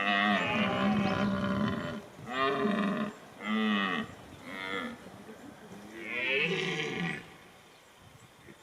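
Holstein cattle mooing: one long call, then several shorter moos in quick succession, and another about six seconds in.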